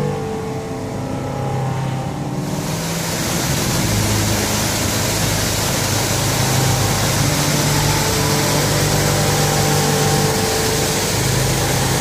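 A boat motor running, with a steady rushing hiss that rises sharply about two and a half seconds in and then holds.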